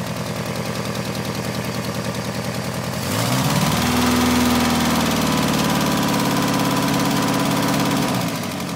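Mk2 VW Golf's four-cylinder engine, with a draw-through turbo and a tacked-up, leaking exhaust, idling. About three seconds in it revs up, is held at higher revs for about five seconds, then drops back to idle near the end.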